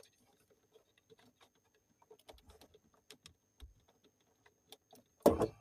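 Scattered small clicks and taps of a flat-headed screwdriver working at a fuse holder, with a short louder sound near the end.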